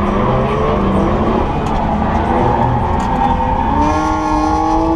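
Nissan Skyline drift car's engine heard from inside the cabin, running hard through a corner over a dense road and tyre rumble. About four seconds in, the engine settles onto a steady held note.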